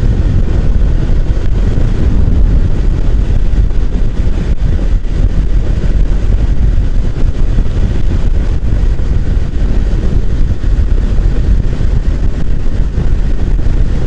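Steady wind rush and road noise of a touring motorcycle riding at speed, strongest in the low range and unbroken throughout.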